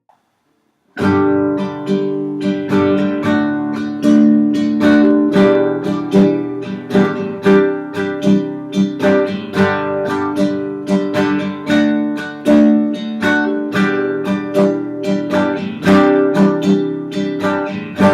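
Acoustic guitar strumming chords in a steady, repeating campfire strumming pattern, starting about a second in after a brief silence.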